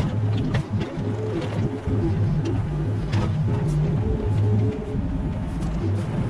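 Mini excavator's engine running under changing hydraulic load, with scattered knocks and scrapes from the work.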